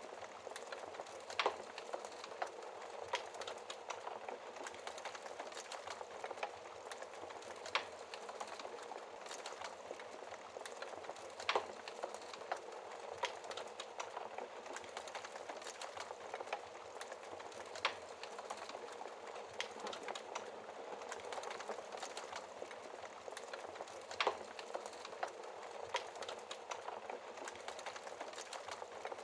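Wood fire burning in a fireplace: a steady soft hiss with frequent small crackles and an occasional louder pop every few seconds.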